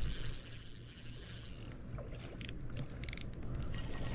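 Fishing reel being cranked while a hooked speckled trout is reeled in: a fast, fine mechanical whirr of the reel's gears, then a few short sharp clicks in the second half.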